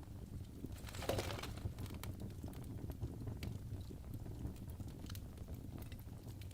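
Wood fire burning in a fireplace: scattered sharp crackles and pops over a low steady rumble of flame, with a louder hissing flare about a second in.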